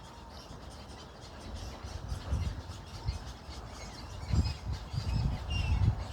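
A few faint, short, high bird chirps over low wind rumble on the microphone.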